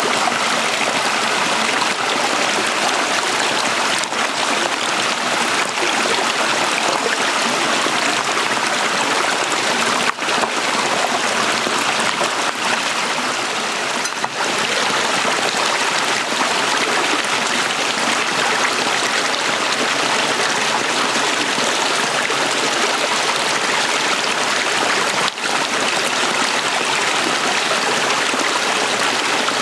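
Small stream flowing: a steady rushing babble of water that dips briefly a few times.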